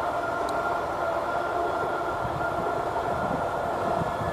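Steady running noise inside a moving passenger train: low rumble of wheels on the rails with a steady whine over it.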